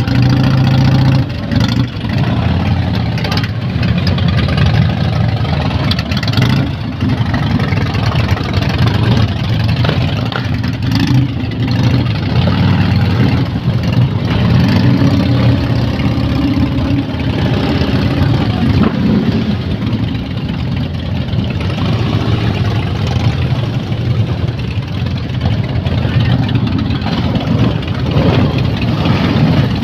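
Harley-Davidson V-twin motorcycle engines running together at idle, a steady deep rumble.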